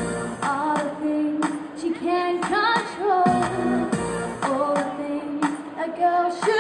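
A female vocalist singing a pop song over backing music.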